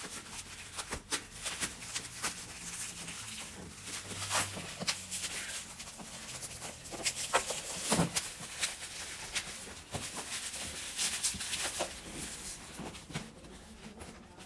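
Cardboard packaging being handled and pried open by hand: irregular rustling, scraping and small knocks, with some effort to get it open.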